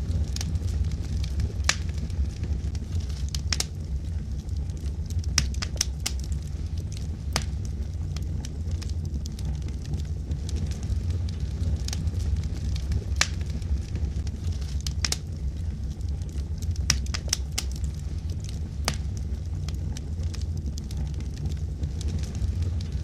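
Burning logs in a fireplace crackling, with irregular sharp pops and snaps over a steady low rumble of the flames.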